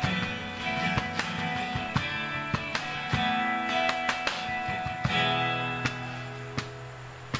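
Strummed guitar playing the instrumental introduction of a worship song, with no singing yet, easing off slightly toward the end.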